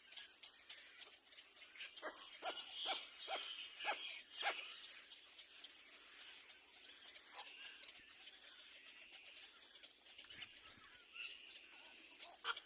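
Little black cormorant nestlings calling at the nest: a quick run of short calls about two to five seconds in, then fainter scattered calls over a thin high hiss.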